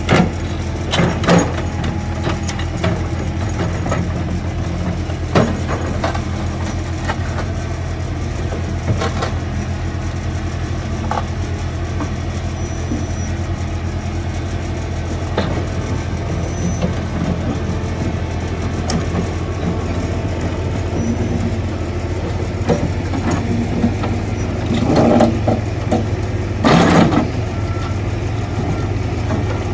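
Heavy diesel engine of construction machinery running steadily at idle, with occasional sharp metallic knocks and clanks; the loudest come near the end.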